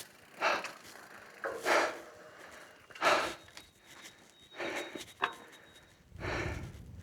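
A man breathing hard, out of breath from cycling uphill, with heavy breaths about every second and a half.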